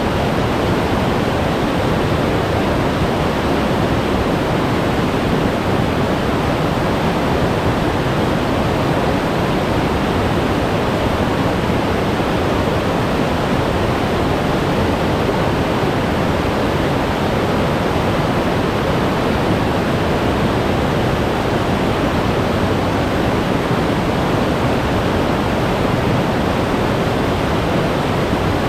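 Glacier-fed mountain stream rushing over rocks: loud, steady meltwater rush with no change.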